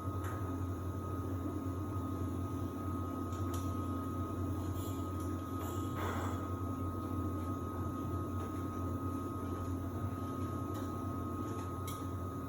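Samsung WD70T4047CE washer-dryer running its drying phase: a steady low hum with a thin, even high-pitched tone over it, and a few faint ticks.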